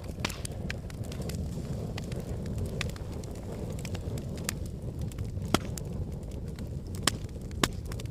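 Wood fire burning in a fireplace: a steady low rumble of flames with scattered sharp crackles and pops, the loudest a little past halfway and two more near the end.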